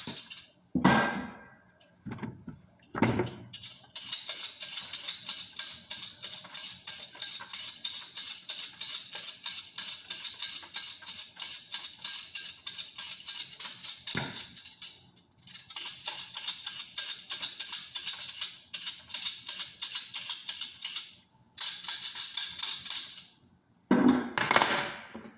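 Carrots being worked by hand in quick, even strokes, about five a second, in runs broken by short pauses.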